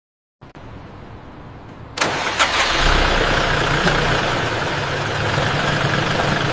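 An Isuzu Panther's engine starting: it catches abruptly about two seconds in, after a quieter lead-in, then runs steadily at idle.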